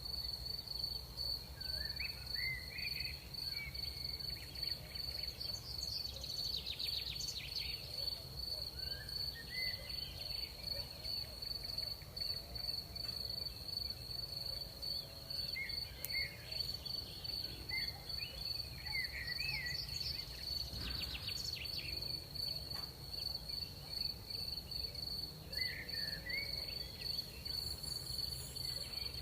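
Crickets trilling in a steady, high, unbroken chorus. Short chirping calls come in now and then over it, with a low rumble of night air underneath.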